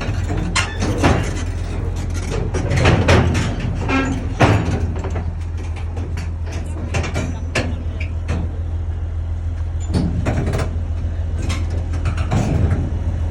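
Heavy diesel engine running steadily at a low, even pitch, with repeated short sharp knocks and clanks over it.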